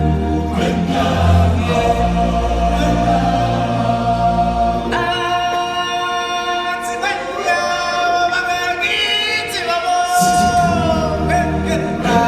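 A choir of singers holding long sung notes over musical backing with a heavy bass line. The bass drops out for several seconds in the middle while the voices carry on, then comes back.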